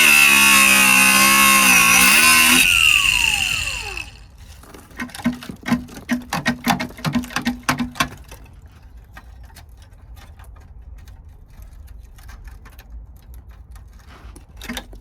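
Angle grinder with a cutting disc cutting through the rusted steel sill of a Ford Focus, its pitch wavering under load; it is switched off about two and a half seconds in and winds down with a falling whine. A run of sharp metallic knocks and taps follows for a few seconds.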